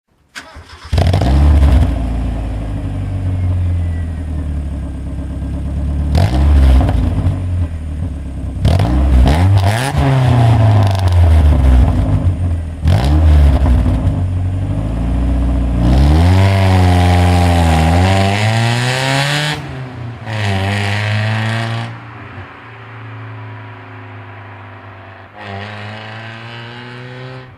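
Mazda Miata's 1.8-litre four-cylinder engine through an aftermarket Magnaflow cat-back exhaust, being revved repeatedly. It gives several short throttle blips, then two longer revs that rise and fall back. It settles to a steady idle with one more small blip near the end.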